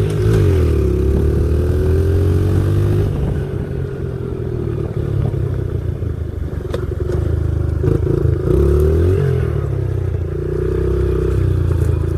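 Pit bike's small single-cylinder engine running while riding, its pitch rising and falling with the throttle. It revs up near the start and again about eight seconds in, then runs more roughly and noisily in between.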